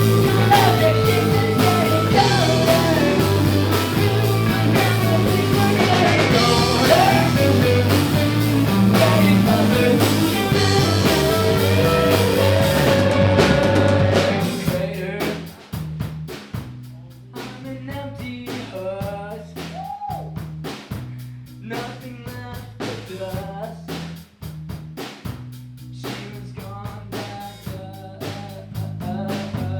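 Rock band playing live, with singing, guitar and drum kit. About halfway through, the full band drops out to a quieter, sparser passage: a repeating bass line, sparse drum hits and a wavering melodic line.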